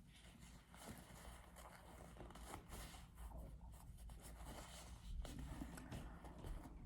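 Faint, scattered scratching and rustling handling noises over low room hum.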